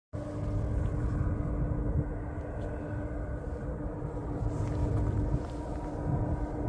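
Low rumble and a steady drone of diesel freight locomotives approaching from a distance, with wind buffeting the microphone.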